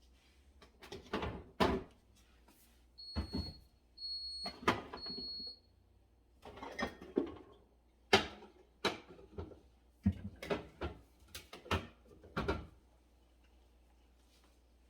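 Containers and items knocking and clattering on refrigerator shelves and the fridge door, in a dozen or so separate knocks. Three short high electronic beeps come about three seconds in.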